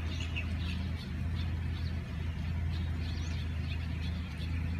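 Small birds chirping faintly and intermittently over a steady low rumble.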